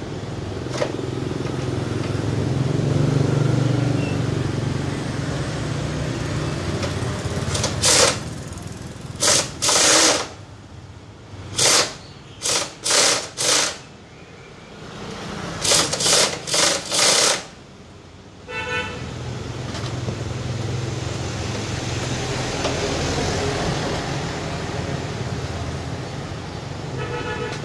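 Small motorbike engine running steadily, interrupted in the middle by about a dozen short, loud blasts in three quick groups.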